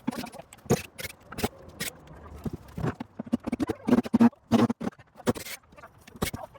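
Irregular knocks, clatter and scrapes of wood and hand tools as old boards are pried and pulled off a rotten wooden playhouse.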